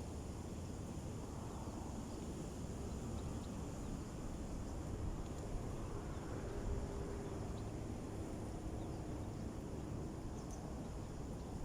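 Wind rumbling on the microphone outdoors, with a faint steady high-pitched hiss above it.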